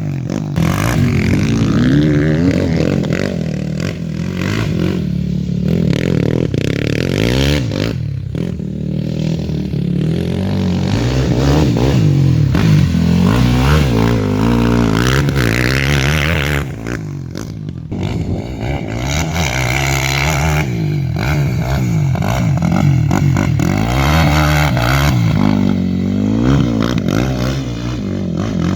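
Quad bike (ATV) engine revving up and down over and over as it is ridden around a motocross track, easing off briefly a little past the middle.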